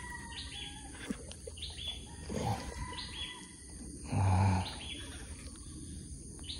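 Birds calling again and again with short rising calls, over a steady high buzz. About four seconds in comes a brief low hum, the loudest sound.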